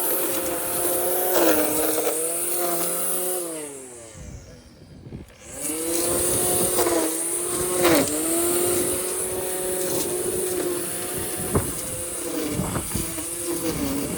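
Lawn mower engine running under load, its pitch sagging and recovering repeatedly as it cuts through tall grass, with one deep dip about four seconds in and a few sharp clicks near the end.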